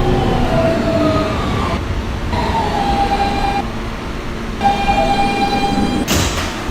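Inside a Kawasaki R160B subway car: the car's electrical whines fall in pitch and then hold steady over a rumble. A short air hiss comes near the end.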